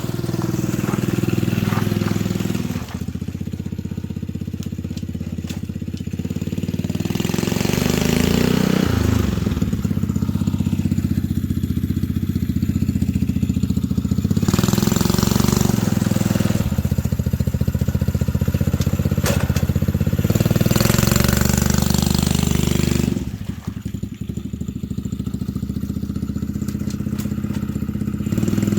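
Go-kart engine running under load on a road test, its engine speed rising and falling as the throttle is opened and eased off. The level drops briefly about three seconds in and again for a few seconds near the end.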